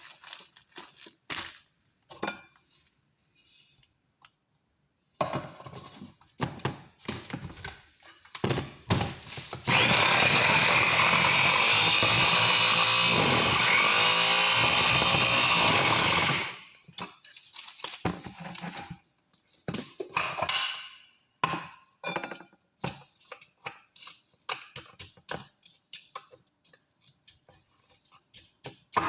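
An electric blender runs for about seven seconds, starting about ten seconds in and stopping suddenly. Scattered kitchen knocks and clatter come before and after it.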